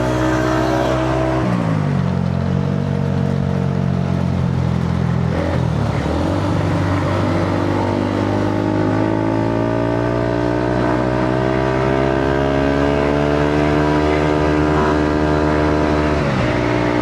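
Motorcycle engine pulling under load, its pitch stepping down at a gear change about a second and a half in, then climbing slowly as it accelerates, and stepping down again at another shift near the end.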